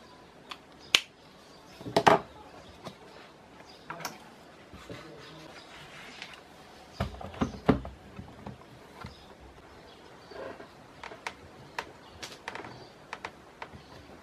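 Scattered light clicks and knocks of small objects being handled and set down on a desk, with a few louder knocks about 2 and 7 seconds in.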